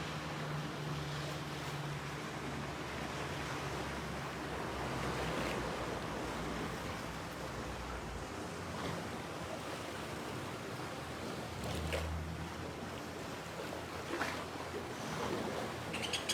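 Ocean surf washing onto a shore, a steady rush that swells and eases, with a few faint clicks in the second half.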